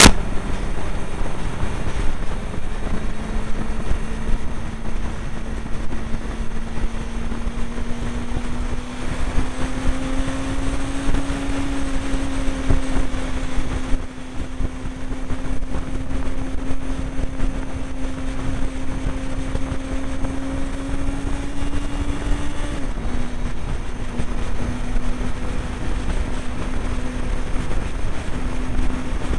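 Motorcycle engine running at a steady cruise, under heavy wind rumble on the microphone. The engine note climbs slightly about ten seconds in and drops suddenly about 23 seconds in.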